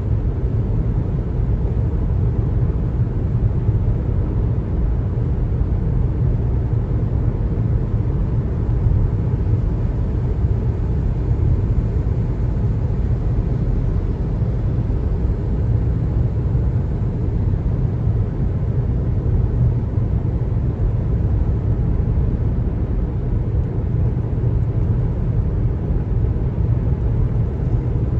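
Steady low road rumble of a car driving at speed, its tyres and engine making an even noise with no separate events.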